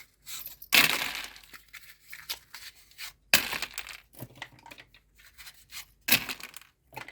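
Wooden matches poured out of matchboxes into a pile, three short rushes of matchsticks a few seconds apart, with small clicks and scrapes of cardboard matchboxes being handled and opened between them.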